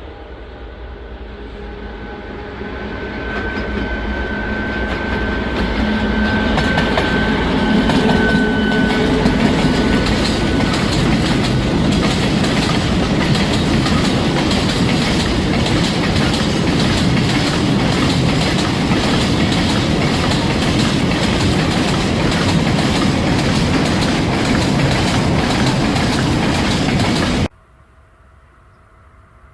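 A train passing close by, growing louder as it approaches and then running loud and steady with its wheels clicking over the rail joints. The sound cuts off suddenly near the end.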